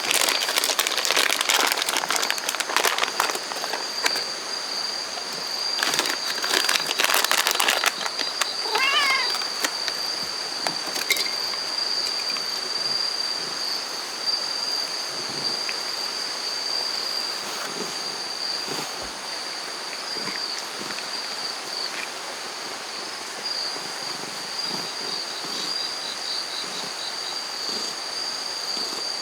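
Insects droning steadily at one high, shrill pitch. Loud rustling, crackling noise comes in the first few seconds and again at about six to eight seconds in, and a short wavering call sounds about nine seconds in.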